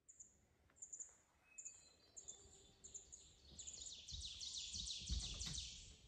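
Birds calling: high short chirps repeating about every half second, breaking into a faster, denser chatter for the last couple of seconds.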